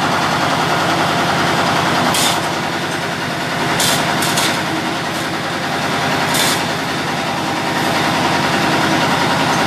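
An engine idling steadily, broken by five short hisses.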